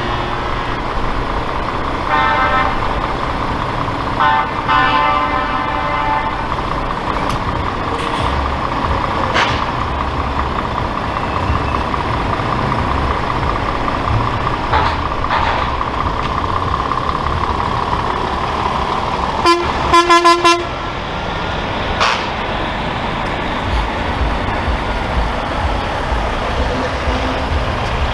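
Trucks driving past and sounding their horns over steady engine rumble: two horn blasts in the first few seconds, and about two-thirds of the way in the loudest sound, a quick run of short horn toots.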